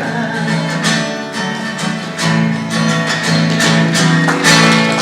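Acoustic guitar strumming chords, an instrumental ending after the last sung line of a hymn-like song.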